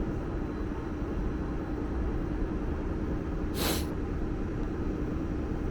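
Steady low rumble and hum of idling transit vehicles, with one short air-brake hiss about three and a half seconds in.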